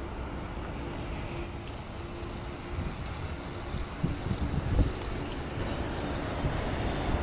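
Avro RJ100's four turbofan engines heard on the landing approach as a steady rumble that grows slightly louder, with wind buffeting the microphone.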